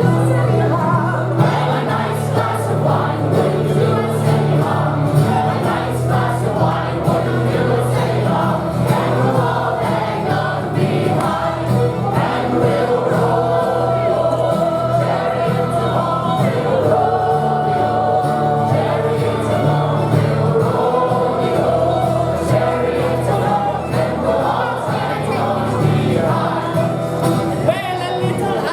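Several voices singing a song together in chorus, over steady low notes that change every few seconds.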